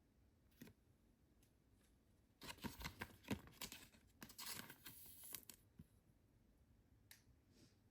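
Packaging being handled and torn: a cluster of crinkling, tearing and clicks lasting about three seconds, starting a couple of seconds in, with a few single clicks around it.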